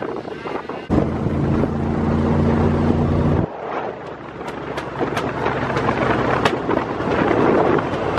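A motor running steadily with a low hum over a rushing noise. About three and a half seconds in, it cuts abruptly to a rushing noise with scattered clicks.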